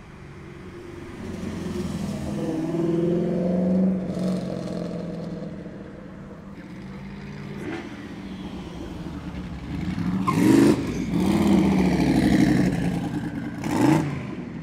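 Performance cars accelerating past one after another. One engine builds to a peak about four seconds in. From about ten seconds on there is louder, harder revving with rising pitch, and a quick sharp rev near the end.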